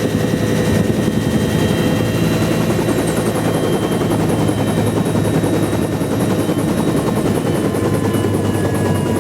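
Bell UH-1 Huey helicopter running, heard from inside the cabin: heavy rotor noise under a steady turbine whine, the whine slipping slightly lower near the end.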